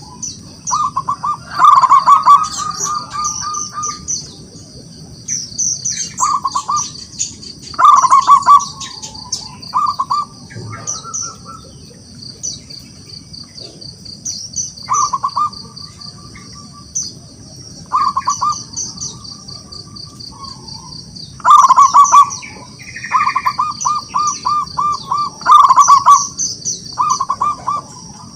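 Zebra dove (perkutut) cooing: bursts of quick staccato coo notes, repeated every few seconds, some running into a longer rolling series. Steady high-pitched chirping runs behind it.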